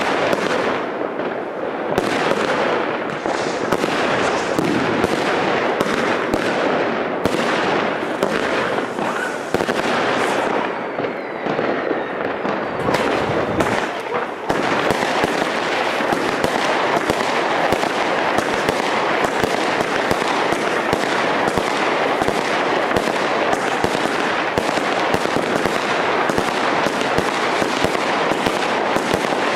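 Consumer New Year's Eve fireworks going off: a dense stream of bangs and cracks from aerial shots bursting overhead. From about halfway on it becomes an almost unbroken rapid crackle.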